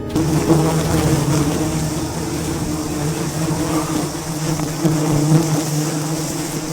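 A swarm of wild honeybees buzzing around their nest: a dense, steady drone with a low hum under it.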